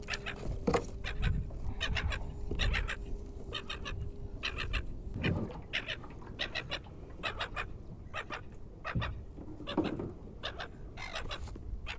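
Seagull calling: short calls repeated many times in quick groups, over a steady low hum that stops about five seconds in.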